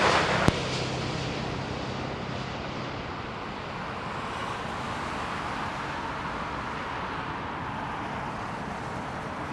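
Steady, distant roar of jet airliner engines over airport background noise, easing slightly over the first few seconds. A click about half a second in as the tower radio transmission cuts out.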